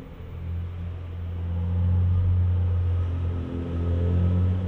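N700S Shinkansen train moving along the platform with a low rumble that grows louder over the first two seconds and holds, faint motor tones humming above it.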